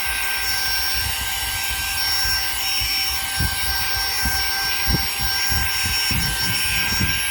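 Saker mini cordless handheld vacuum's motor running steadily: a high even whine over rushing air, with a few low bumps in the second half.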